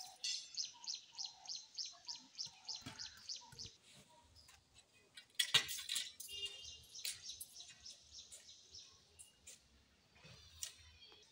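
A bird calling in fast runs of short, high chirps, about four a second, with a sharp knock about five and a half seconds in.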